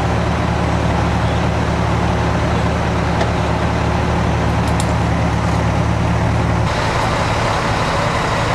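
Fire truck's diesel engine running steadily with a constant low hum. About seven seconds in, the sound abruptly turns rougher and more pulsing.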